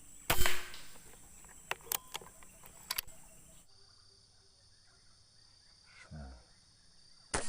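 Air rifle shot about a third of a second in, followed by a few sharp clicks over the next two seconds. A second shot near the end.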